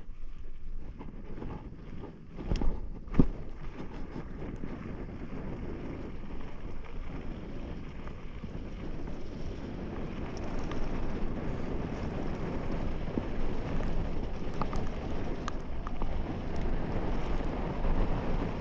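Wind buffeting the microphone as a low, steady rumble that grows a little louder about ten seconds in, with two sharp knocks about two and a half and three seconds in.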